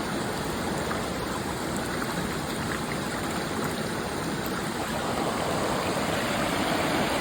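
Steady rush of running water from a stream, an even noise with no breaks.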